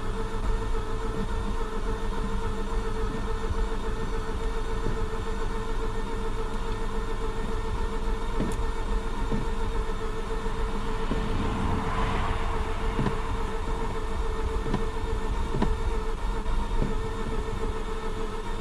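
Starter motor cranking a 2004 Mazda RX-8's 13B rotary engine in one long, steady crank, with a brief swell about twelve seconds in. The engine does not fire: it is a cranks-but-won't-start rotary.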